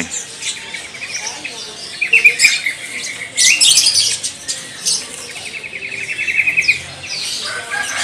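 Caged birds chirping and calling, with rapid trills about two seconds in and again around five and a half seconds in.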